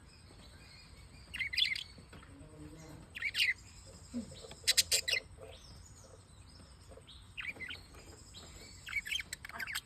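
Small pet parrots (love birds) chirping in short, sharp bursts a second or two apart, with a quick stutter of calls about five seconds in and a busier run of chirps near the end.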